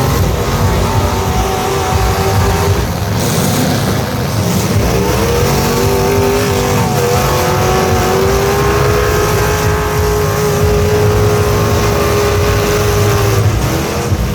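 Truck engines running hard and revving; the pitch climbs about five seconds in and is held high until near the end.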